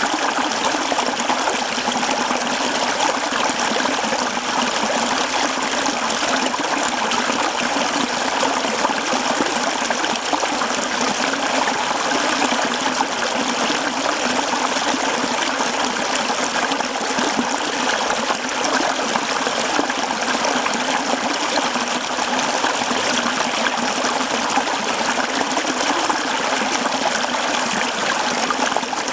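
Mountain stream running steadily: a continuous, even rush of water, with little deep rumble beneath it.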